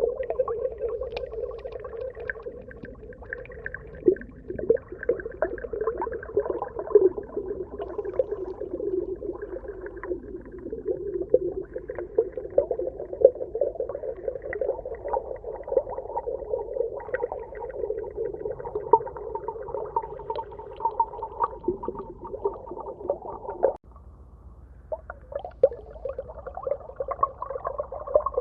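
Underwater ambience: a wavering, bubbling drone with scattered clicks. It breaks off abruptly about three quarters of the way through, then starts again.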